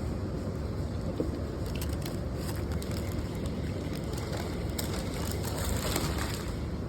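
Someone biting into and chewing a Subway sandwich, heard as a few faint crunches over a steady low background rumble.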